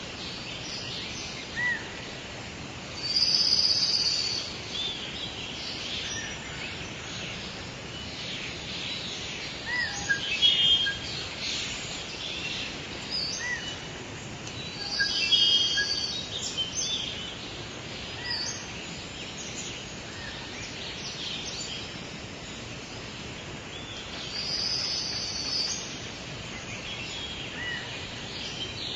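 Outdoor nature ambience: assorted birds chirping and singing over a steady background hiss, with a louder burst of bird calls three times, roughly every ten seconds.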